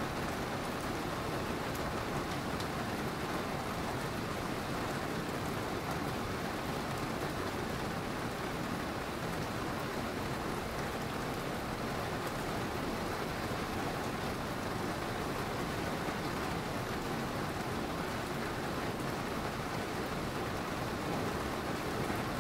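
Steady rain falling: an even hiss of many drops at a constant level, with no distinct thunderclap.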